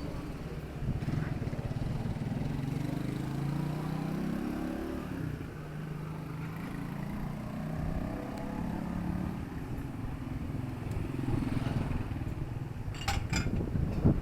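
Street traffic: motor vehicle engines passing, one rising in pitch as it speeds up in the first few seconds and another passing a few seconds later. Near the end come two sharp clicks or knocks.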